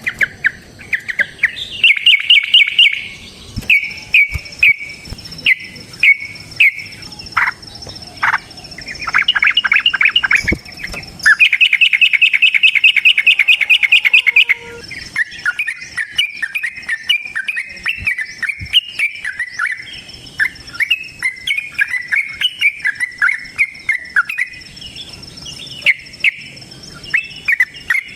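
Yellow-vented bulbul calling in loud, fast, repeated chattering notes, in bursts with a long unbroken rapid run partway through.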